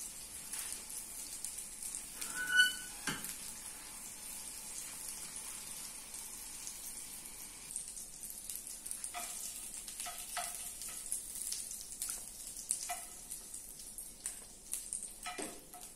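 Hot dogs sizzling steadily as they fry in a little oil in a nonstick pan. There is a single ringing clink about two and a half seconds in, and light clicks later as the sausages are handled with chopsticks.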